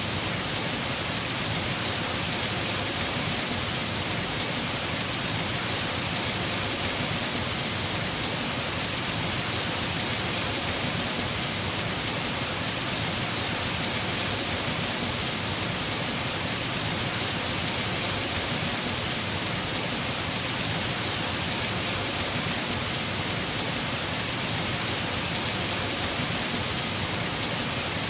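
Heavy rain falling steadily on a house roof: a dense, even hiss of drops with no breaks or thunderclaps.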